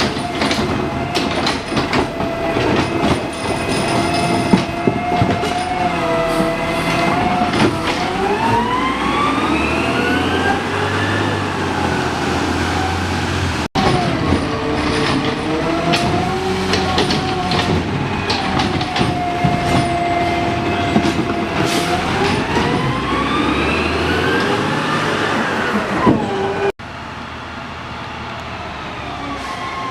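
Garbage truck diesel engine running loud with clanks and knocks, twice revving up to a high whine and winding back down. The sound breaks off abruptly twice and comes back quieter near the end.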